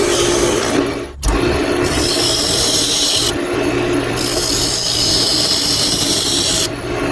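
Wood lathe spinning a glued-up wooden blank while a turning tool cuts into it, a steady rough scraping of wood being shaved away over the lathe's hum, shaping the walnut base. It breaks off for a moment about a second in, then carries on.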